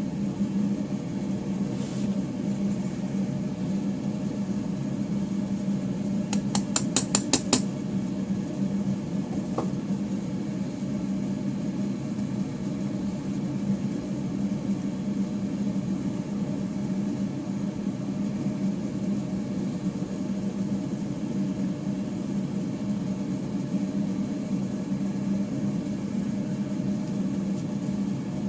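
Steady low hum of a furnace running, with a quick run of about seven sharp clicks a few seconds in.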